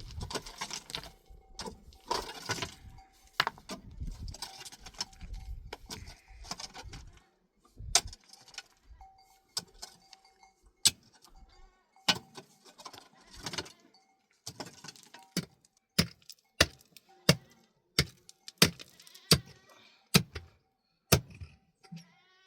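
Irregular scraping and rustling, then a run of sharp knocks or strikes, about one and a half a second, in the second half.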